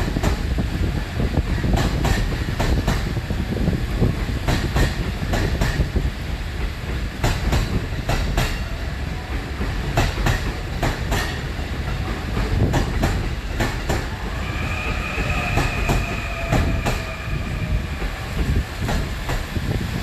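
Electric train running on the tracks, its wheels clacking repeatedly over rail joints above a steady low rumble. A high whine with several steady pitches joins in about fourteen seconds in and fades a few seconds later.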